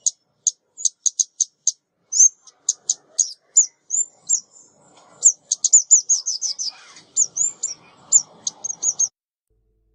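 Female ốc mít (a small songbird) calling in a rapid series of short, high chirps, with some hooked, falling notes and a quick run of notes near the middle. The calls stop abruptly a second before the end.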